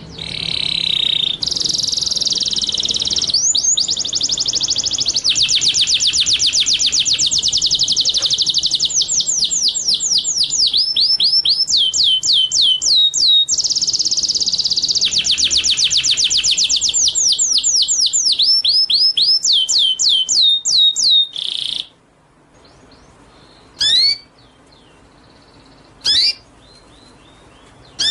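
A songbird singing a long, fast, high-pitched song of rapidly repeated sweeping notes, which stops about 21 seconds in. After that come only a few single sharp, downward-sweeping calls.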